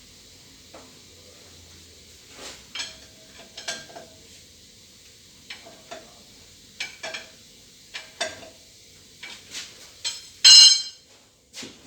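Irregular light metallic clinks and taps, a dozen or so separate strikes with a brief ringing, ending in a louder clatter near the end.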